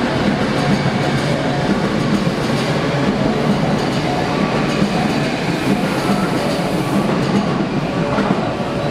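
Electric commuter train running along the platform track, a steady rumble of wheels on rail with some clickety-clack.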